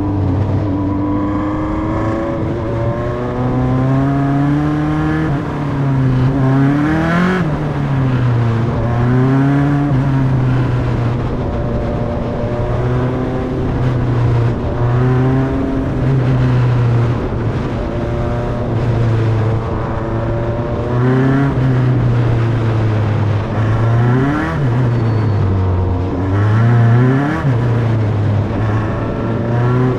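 Single-seater formula race car engine heard onboard on the pace lap, running at moderate, fairly even revs. Several times the pitch dips and climbs again as the throttle is lifted and reapplied.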